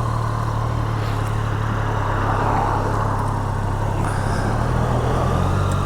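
Triumph Daytona 660's three-cylinder engine running steadily at low revs.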